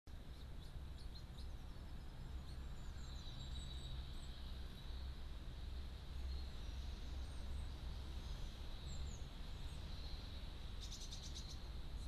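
Faint outdoor ambience: a steady low rumble and a thin high whine, with a few short, high chirps from small songbirds scattered through it. A quick run of ticks comes near the end.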